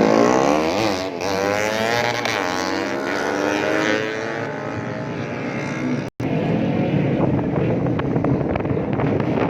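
Several 150cc four-stroke underbone racing motorcycles running at speed, their engine notes rising and falling and crossing one another as they pass. The sound cuts out for an instant about six seconds in, then continues as a rougher mix of engine noise.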